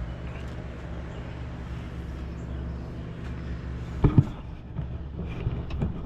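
A steady low machine hum runs throughout. About four seconds in comes a sharp, loud knock, then a few lighter knocks near the end, as engine and mount parts are handled during an LS V8 test-fit.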